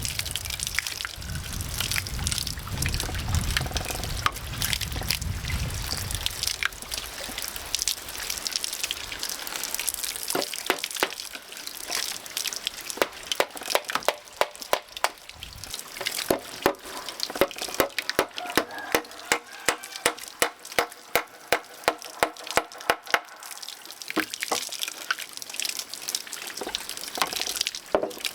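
Steady rush of water with a low rumble for the first few seconds. From about ten seconds in come sharp knocks of tool blows, quickening to about two a second before stopping near the end.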